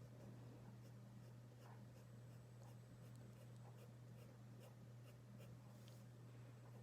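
Faint pencil strokes on paper, short quick scratches at about two a second, drawing small wispy lines over a steady low electrical hum.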